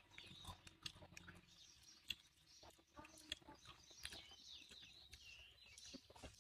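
Faint chewing of corn kernels, with scattered small clicks, while birds chirp in the background.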